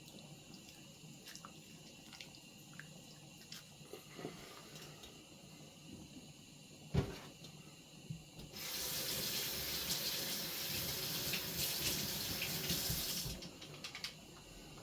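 Kitchen tap running into a sink for about five seconds, starting about two-thirds of the way in and shutting off, after a single sharp knock and a few light kitchen clicks.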